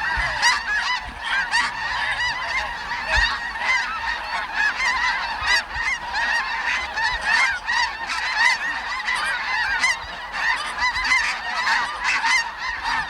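A large flock of snow geese calling, many overlapping short, high honks in a steady, continuous chorus.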